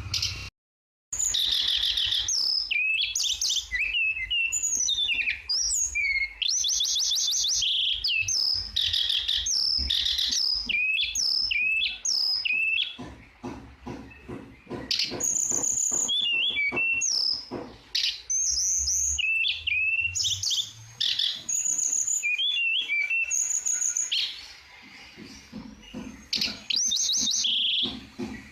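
A tledekan singing a long, busy song of quick whistled notes, sliding phrases and fast trills, broken by short pauses. The sound cuts out for about half a second just after the start.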